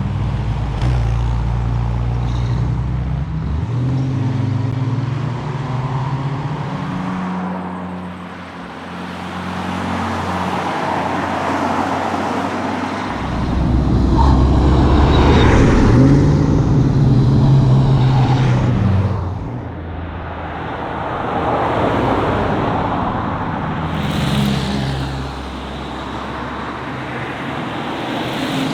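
Ford Mustang GT's V8 engine under way on a tarmac rally road, its note rising and falling with throttle and gear changes over tyre and road noise. It eases off to a quieter coast about a third of the way in, then pulls hard and loud around the middle.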